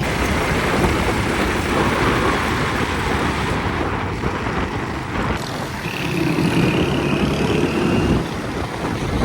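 Busy road traffic: a steady din of vehicle engines and street noise that changes abruptly a few times.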